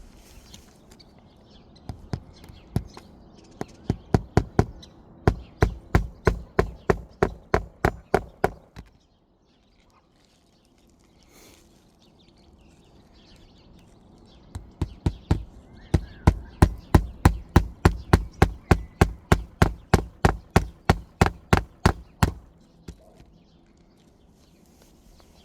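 Hammer driving roofing nails into a replacement shingle: two long runs of quick strikes, about four a second, each run starting light and growing louder, with a pause of a few seconds between them.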